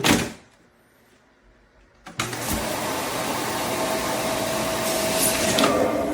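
A sharp click, then about two seconds in the Eureka RapidClean Pro cordless stick vacuum's motor starts and runs steadily at a loud, even level.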